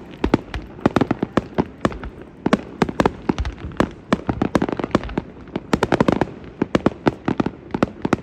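Fireworks display going off in a rapid, continuous run of sharp bangs and crackles, several a second, with deeper booms mixed in.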